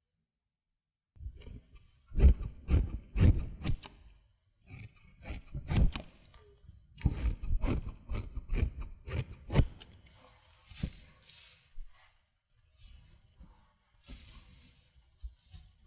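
Hair-cutting scissors snipping close to the microphone in quick runs of cuts, then softer rubbing sounds near the end.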